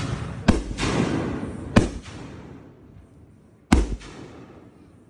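Aerial fireworks bursting overhead: three sharp bangs, about half a second in, near two seconds and near four seconds. A crackling hiss follows the first two bangs and fades out after about two and a half seconds.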